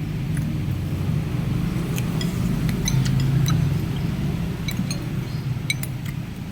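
Spoon clinking against a bowl of bakso soup while eating: scattered light clinks, mostly from about two seconds in, over a steady low hum.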